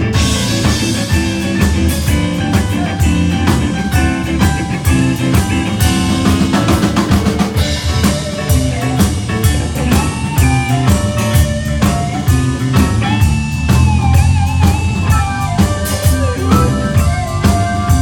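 Live blues-rock band playing an instrumental passage with drum kit, bass and electric guitar at a steady beat. In the second half a lead line plays bent, gliding notes over the band.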